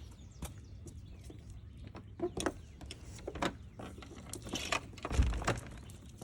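Footsteps on a forest trail, an irregular series of short steps, with one heavier thump about five seconds in.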